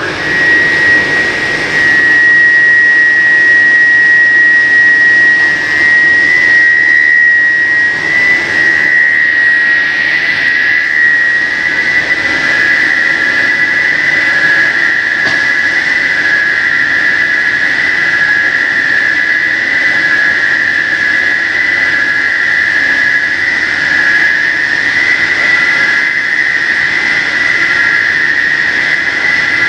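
Cutting machine for extruded pet treat sticks running with a loud, steady, high-pitched whine over a hiss.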